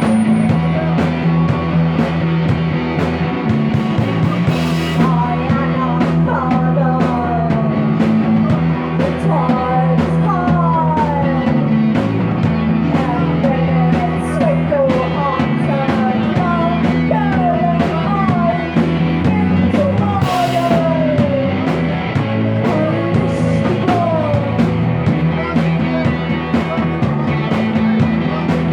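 Live rock band playing loudly: held low chords under a lead line made of many short downward slides, with steady cymbal hits.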